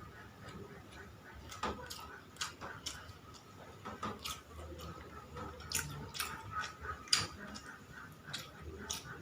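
Scattered light clicks and taps of someone eating a meal, coming irregularly, a few at a time.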